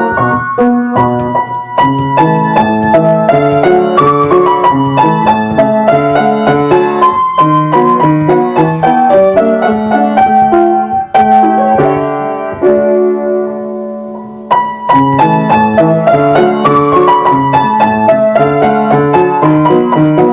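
Piano playing a continuous melody over chords. Partway through, a chord is held and left to fade for about two seconds before the playing picks up again.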